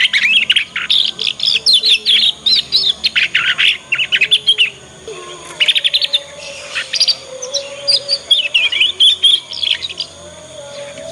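Young canary twittering in its learning song (ngriwik): quick runs of high chirps and trills broken by short pauses.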